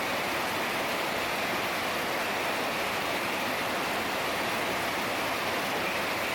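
Heavy rain falling, a dense steady hiss with no separate drops or thunder standing out.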